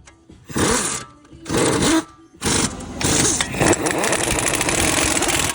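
Cordless power tool driving the brake caliper bracket bolts home with an E20 external Torx socket: two short bursts, then a longer run of about three seconds that cuts off sharply.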